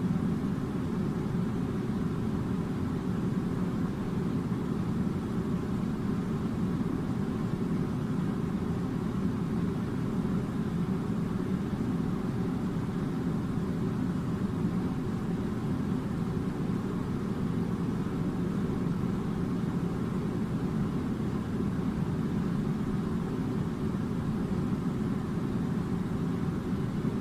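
A steady low rumbling drone that does not change, like a machine or moving air.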